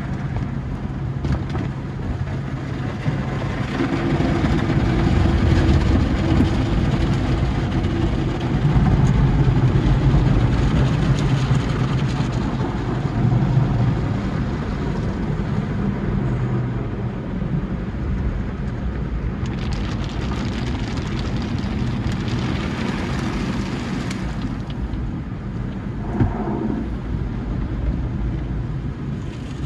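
Sonny's tunnel car wash equipment working over a car, heard from inside the cabin: a steady machine rumble with motor hum, louder for a stretch early on, and a hissing spray for about four seconds near twenty seconds in.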